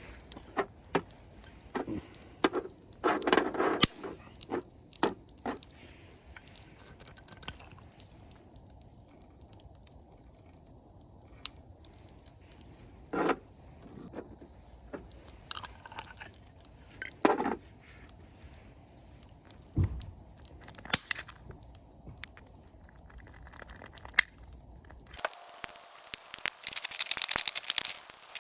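Scattered metallic clinks, clicks and short knocks of gear being handled, then a few seconds of steady rustling near the end.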